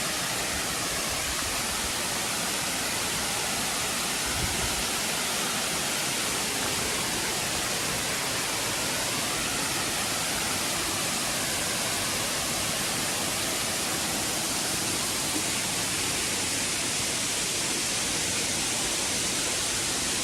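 An 18-metre waterfall in heavy rainy-season flow, a steady rush of falling water.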